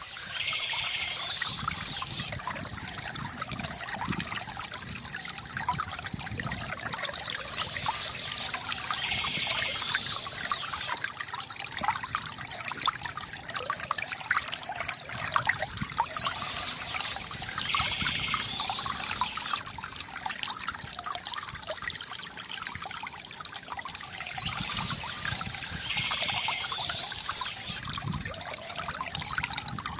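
A small stream trickling and splashing steadily over stones, with a high bird call that comes back about every eight seconds.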